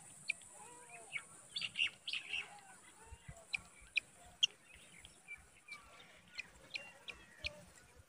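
Birds chirping: short, sharp, high calls repeated at irregular intervals, a few of them louder than the rest, over a faint steady high-pitched hiss.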